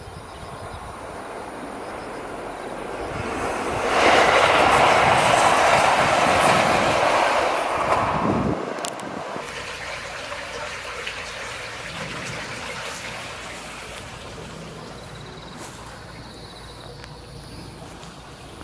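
Kyoto Tango Railway train passing close by: its noise builds over a couple of seconds, is loudest for about four seconds, then drops off sharply and fades away.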